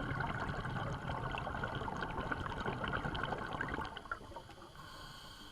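Water trickling and splashing, quieter from about four seconds in.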